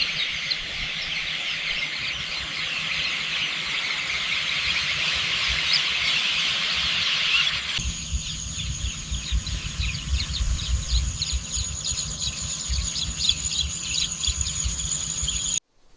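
Countryside nature ambience of dense, high-pitched bird chirping. About eight seconds in it changes abruptly to a steady high whine with chirps over it and a low rumble underneath. It cuts off just before the end.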